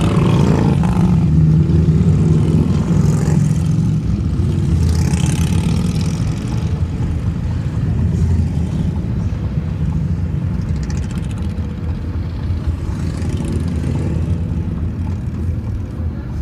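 Steady low rumble of engines in slow street traffic, heard from inside a minivan with its windows partly down. It swells and eases a few times as vehicles pass.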